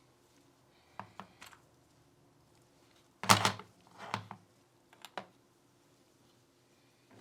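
Small hard parts being handled during pistol cleaning and work on a Glock 19: a few light clicks, then a louder knock with a short clatter just after three seconds, followed by a few more clicks.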